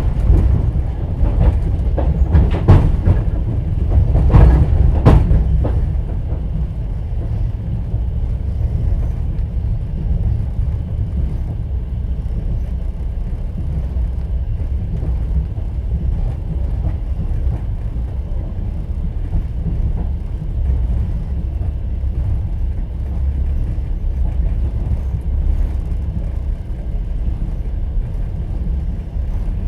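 Moving train heard from inside a platskart sleeper carriage: wheels clack sharply over rail joints several times in the first six seconds, then give way to a steady low rumble of the running gear.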